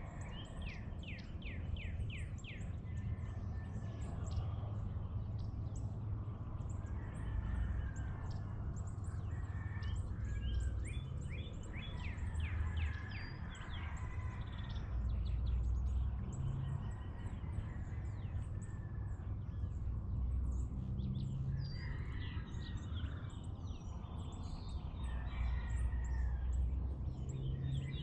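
Many birds chirping and singing in a dawn chorus, with quick series of repeated down-slurred notes, over a steady low rumble.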